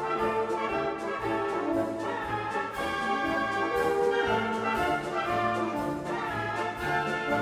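Orchestral music with prominent brass (trumpets, trombones and horns) over a steady beat.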